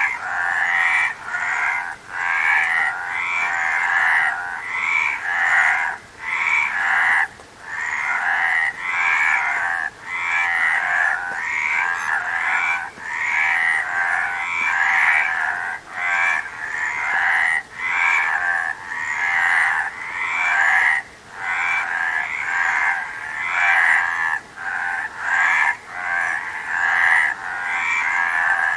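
Frogs croaking in a dense, continuous chorus. The calls come in runs broken by short dips every second or two.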